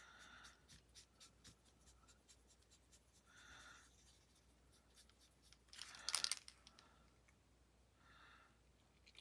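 Faint, scratchy strokes of a brush pen working colour on cardstock, with a brief louder rustle about six seconds in.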